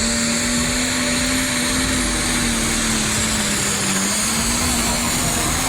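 A motor vehicle engine running steadily: a continuous drone that drifts slowly up and down in pitch over a steady rushing noise.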